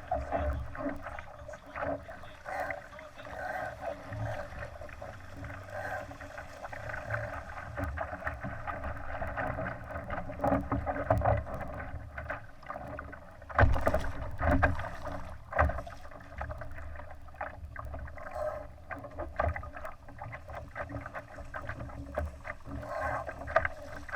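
Water sloshing and splashing against a Laser sailing dinghy's hull as it sails, with low wind rumble on the microphone; a sharper splash or knock about fourteen seconds in.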